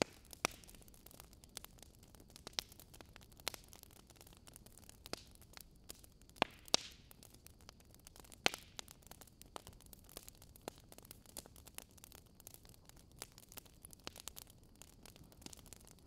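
Wood fire crackling: a steady soft hiss with irregular sharp pops and snaps, the loudest a few seconds apart.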